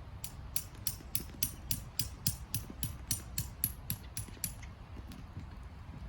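A rapid run of evenly spaced sharp mechanical clicks, about four a second, lasting some four seconds and stopping well before the end: a ratchet-like mechanism being worked.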